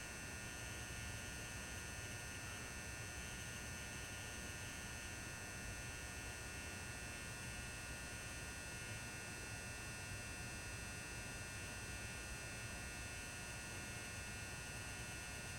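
400-watt mercury vapour high-bay lamp fixture running lit, giving off a faint steady electrical hum with a thin high whine, unchanging throughout.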